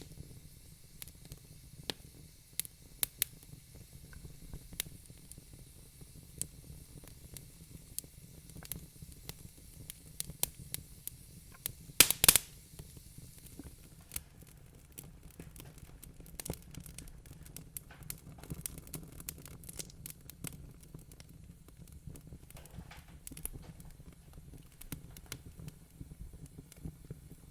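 Wood fire crackling in a fireplace: irregular sharp pops and snaps over a steady low rumble, with a loud burst of pops about twelve seconds in.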